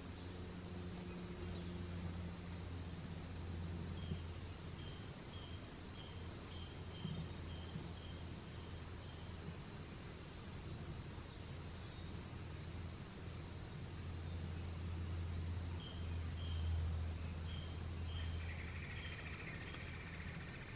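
Woodland birds calling: a short, high, downward chirp repeated every second or two, with runs of softer short notes and a brief buzzy call near the end. A steady low hum sits underneath.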